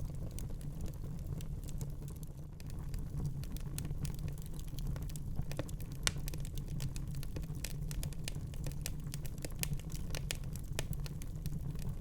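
Wood fire crackling in a fireplace: irregular sharp pops and snaps over a steady low rumble of the flames, with one louder pop about halfway through.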